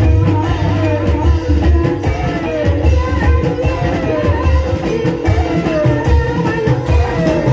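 Gending ebeg music: Banyumas-style gamelan with a steady drum beat, a held gong-like tone and a short falling melodic phrase repeated over and over, with singing.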